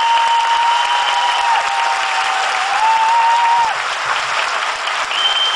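Theatre audience applauding, with a long high steady whistle over the clapping that wavers and stops about two-thirds of the way through, and another high whistle starting near the end.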